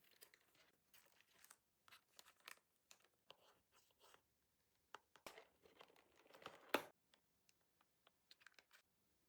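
Faint, irregular small clicks, taps and rustles of nail tools and products being handled, with a louder rasping sound building to a sharp peak about two-thirds through.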